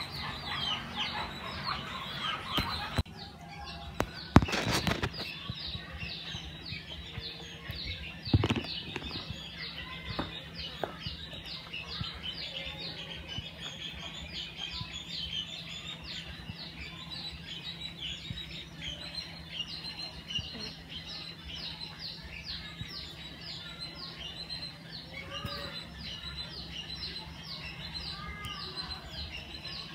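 Small birds chirping: a constant stream of short, high, falling chirps, several a second. Two loud knocks or rustles break in about four and eight seconds in.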